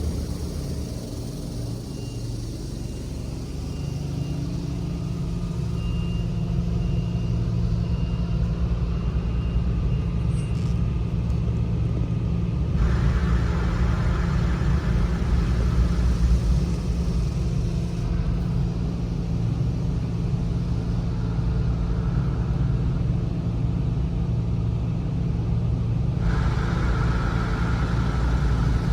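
Touchless automatic car wash running: a steady low mechanical rumble, with a hiss of spray that comes in about halfway through, fades, and returns louder near the end.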